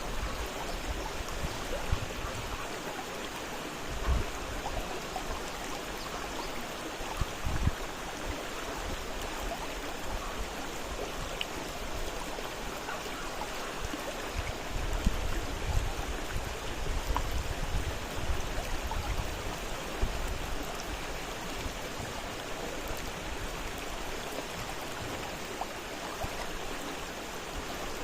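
A fast-flowing river rushing steadily over rocks, with a few low gusts of wind buffeting the microphone.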